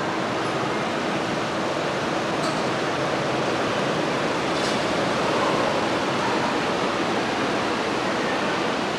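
Heavy rain pouring down steadily in a thunderstorm, an even, unbroken hiss.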